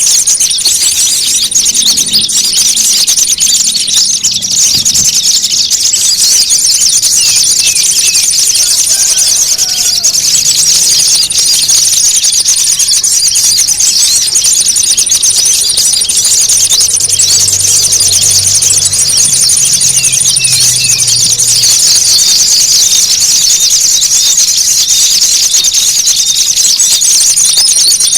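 Small-bird lure recording for bird trapping: loud, continuous, high-pitched chattering and trilling of many small birds layered together, with a thin steady high whine that drops out and returns several times.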